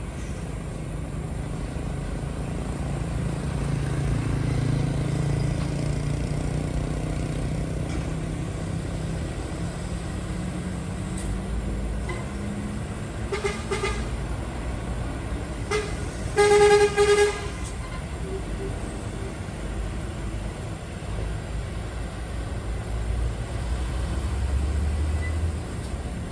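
Heavy diesel trucks' engines droning as they pass, swelling and easing off. Midway a vehicle horn toots briefly twice, then gives a quick beep and a longer blast of just under a second, the loudest sound.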